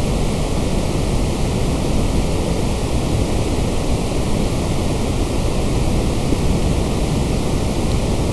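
Steady white noise: a continuous, even hiss across the whole range, heavier in the lows, with no change.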